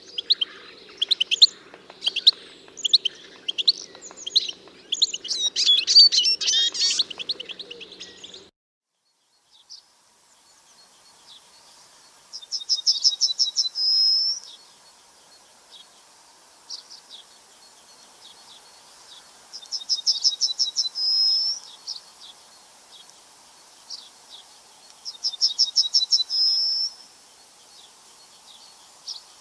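Songbirds chirping and calling busily, then after a short break a single bird repeats a fast trilled song phrase three times, about six or seven seconds apart, with scattered short chips in between.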